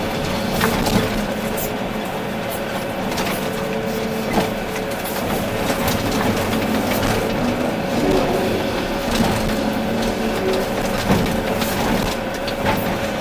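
Volvo EC380D excavator's diesel engine running steadily under hydraulic work, with scattered knocks and clatter of rock and earth as the bucket digs and moves material.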